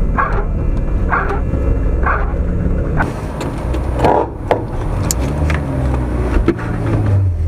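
A VAZ (Zhiguli) race car's engine idling, heard from inside the cabin, with a few short knocks in the middle.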